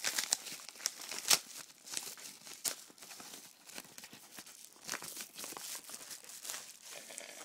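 Plastic crinkling and crackling with irregular sharp clicks, as a plastic Blu-ray case and its wrapping are handled; the loudest click comes about a second in.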